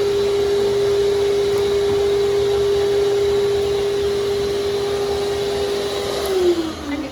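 Shop vacuum running with a steady whine, then switched off about six seconds in, its motor winding down with a falling pitch.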